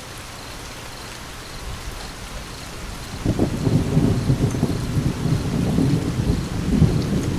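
Steady rain hiss, then about three seconds in a rolling rumble of thunder builds and keeps rolling with a crackling low roar.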